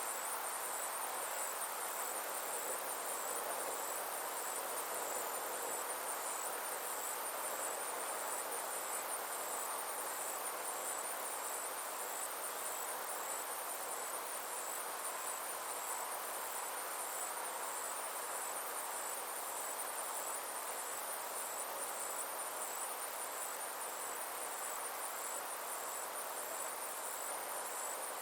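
Summer insect chorus: a steady high-pitched trill with a regular pulsing chirp just below it, over a soft even background hiss.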